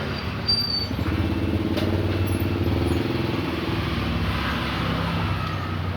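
A motorcycle engine running steadily, with a slight change in its note about halfway through.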